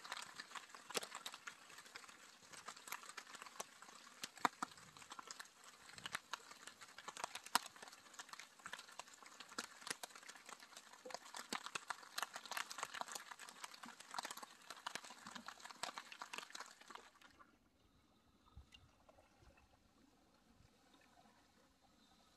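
Rain pattering close overhead, a dense run of quick irregular taps, cutting off suddenly about 17 seconds in to faint quiet.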